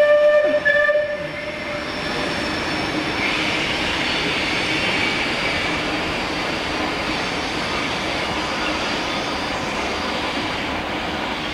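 A train of coaches rolling slowly past on curved track, a steady rumble and hiss of wheels on rail. A train sounds one loud single-note warning for about a second at the very start.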